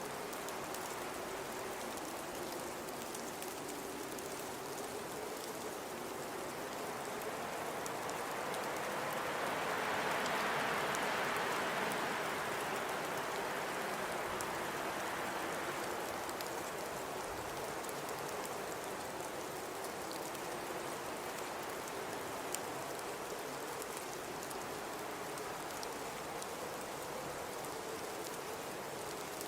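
Blizzard wind blowing steadily, with one gust that swells and dies away over several seconds about ten seconds in.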